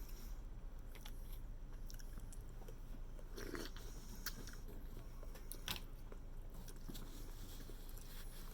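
A person eating: chewing and biting, with a few sharp clicks and cracks about three and a half, four and a half and six seconds in.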